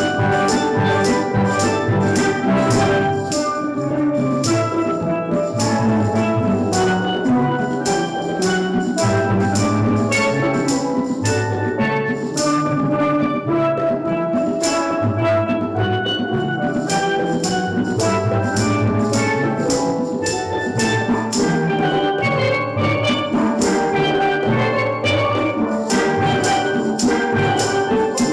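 Steel drum band playing a tune over a steady drum beat.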